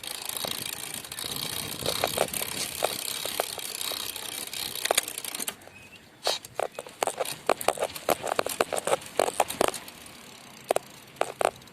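Bicycle being ridden: a steady rush of wind and road noise with the bike rattling, then about halfway through a sudden drop to a quieter stretch of irregular clicks and knocks.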